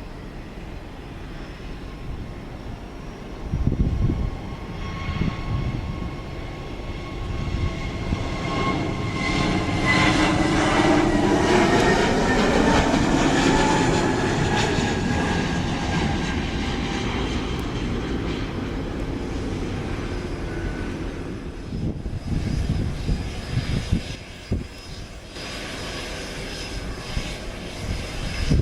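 Viking DHC-6-400 Twin Otter's twin turboprop engines passing by: a whine that swells to its loudest about ten to fourteen seconds in, then drops in pitch as the aircraft moves away. Low rumbles come and go near the start and near the end.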